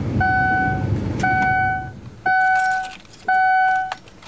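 A 2005 Ford Taurus warning chime beeping steadily about once a second, four beeps in all. Under the first half runs a low rumble that dies away about two seconds in.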